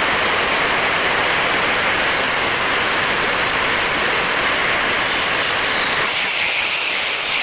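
A steady, loud hiss with no distinct tones; its lower part drops away about six seconds in.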